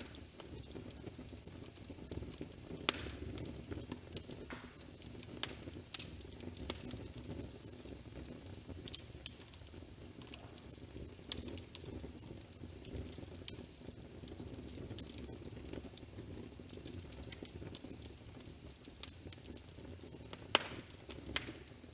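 Crackling wood fire: a steady low rumble with irregular sharp pops and crackles, one loud pop about three seconds in.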